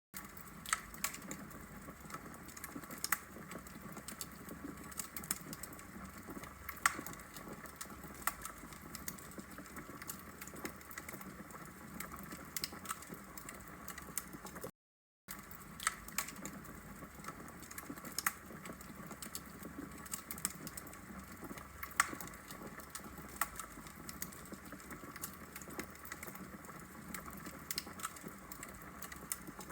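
Wood logs burning in a fireplace: irregular sharp pops and snaps of crackling fire over a steady soft hiss. The sound cuts out to silence briefly about halfway through.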